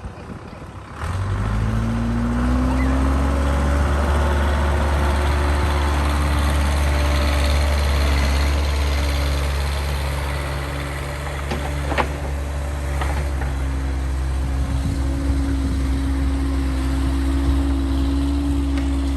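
Case 580C backhoe's engine revving up from idle about a second in, its pitch climbing for a second or two and then holding steady at the higher speed. Two sharp clicks are heard past the middle.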